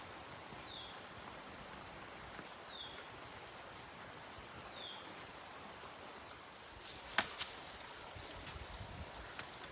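A bird calling outdoors, a short high chirp repeated about once a second, five times, over a steady hiss of forest ambience. About seven seconds in come two sharp snaps close together.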